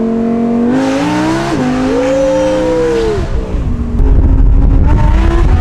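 Straight-piped Audi R8 V10 exhaust, loud, stepping in pitch with gear changes and a rev that rises and falls about two seconds in. A loud low rumble comes in near the end.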